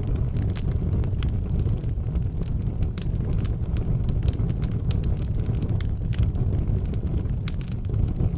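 Wood fire burning in an outdoor fireplace: irregular crackles and sharp pops over a steady low rumble.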